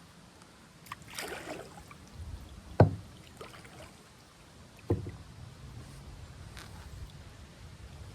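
Kayak paddling: paddle strokes splashing in the water, with two sharp knocks against the kayak, the first, about three seconds in, the loudest, and the second about two seconds later.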